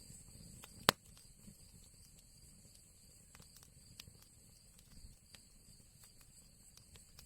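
Wood fire crackling in an old chimney fireplace: scattered small snaps and ticks, with one loud sharp pop about a second in, over a low rumble from the burning fire.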